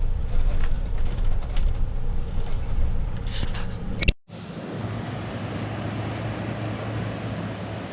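Vehicle cabin rumble from a moving tour van, with a few light clicks. It cuts off suddenly about four seconds in and is replaced by a steady, even rushing noise with a faint low hum underneath.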